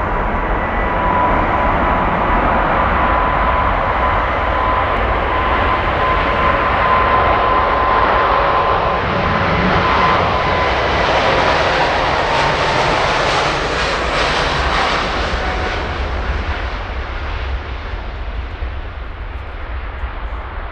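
Jet airliner passing by, its engines making a loud roar with a high whine that drops in pitch as it goes past; the roar swells to its loudest about two-thirds of the way through and then fades away.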